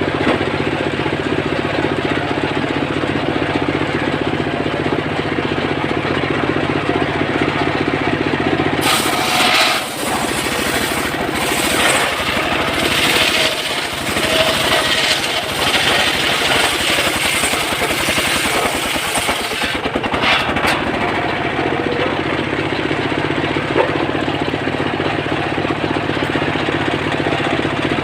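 Engine-powered wood saw running steadily, cutting through a mahogany log with a harsh, loud ripping noise from about nine seconds in until about twenty seconds, then running on without cutting.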